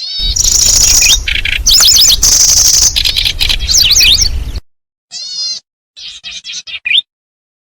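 Recorded calls of the kecici belalang, a small bird, played as a lure. First comes a loud stretch of about four seconds of high buzzy trills and zigzagging warbled notes over a low rumble. After a short break there is a brief call, then a rapid string of short chirps that ends in a rising note.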